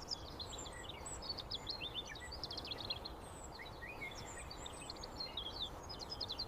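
Small birds chirping, many short, quick calls overlapping, over a faint steady outdoor background hiss.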